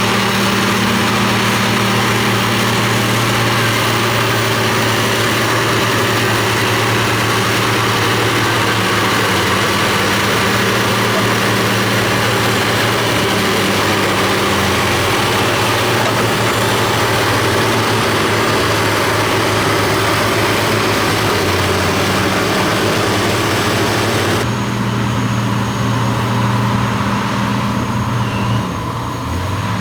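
Heavy diesel engine of an earthmoving machine running steadily, with a dense hiss and clatter layered over the engine note. About 24 seconds in, the high noisy layer drops away abruptly while the engine keeps running.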